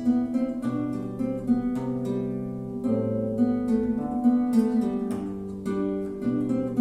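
A plucked string instrument playing a quick run of sharply plucked notes over held low notes, part of a solo performance.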